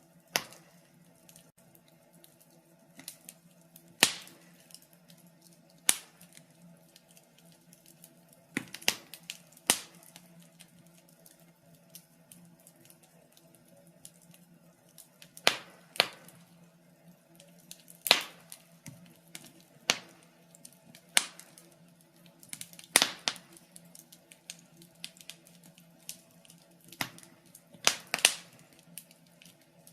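Wood fire in a fireplace crackling: irregular sharp pops and snaps, some much louder than others, every second or two over a faint steady hum.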